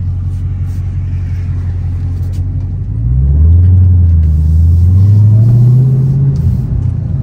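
Dodge Hellcat's supercharged 6.2-litre V8 heard from inside the cabin: a steady low rumble while rolling, then about three seconds in it accelerates hard, the engine note climbing, dipping once at a gear change and climbing again, before easing off near the end.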